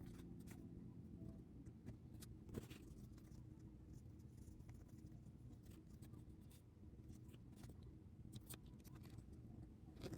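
Faint desk sounds of stationery being handled: scattered light clicks and short scratches of paper and pen over a low steady hum.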